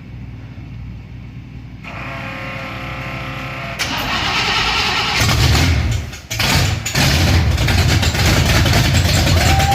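Pontiac Firebird engine cranking on the starter on full choke, catching about five seconds in, stumbling for a moment around six seconds, then running loud and nasty sounding.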